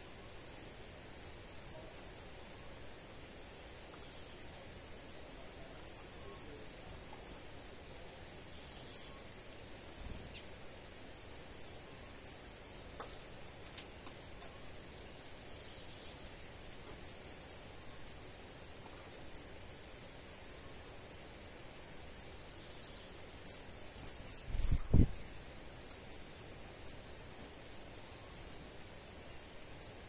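Bird giving short, very high-pitched chirps, repeated irregularly, over a faint steady background hiss. A brief low thump comes about 25 seconds in.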